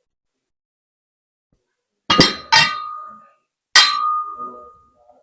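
Three sharp metallic clinks, the first two about half a second apart and the third about a second later. Each leaves a short ringing tone.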